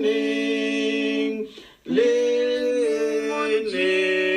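Voices singing a hymn a cappella in harmony, holding long notes, with a brief pause for breath about a second and a half in.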